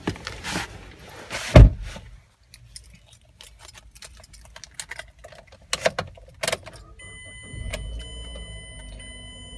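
Keys jangling and clicking with a heavy thump about one and a half seconds in as someone settles into the driver's seat of a 2010 Mazda 5. Near the end the engine starts and settles into a steady idle.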